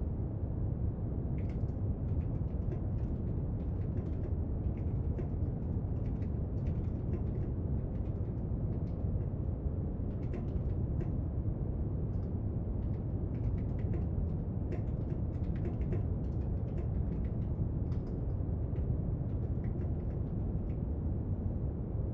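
Steady brown noise, with faint, irregular light clicks and taps of desk study work over it from about a second and a half in.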